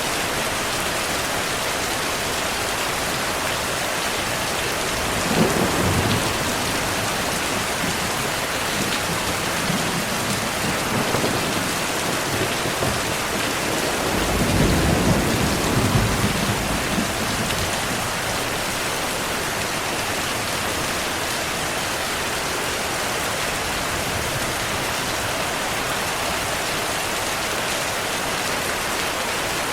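Heavy rain falling steadily as an even hiss, with two low rolls of thunder: a short one about five seconds in and a longer rumble about halfway through.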